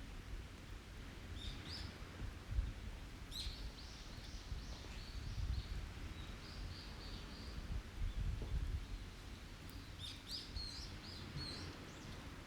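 Small forest birds chirping in three short runs of quick, high notes, over a steady low rumble.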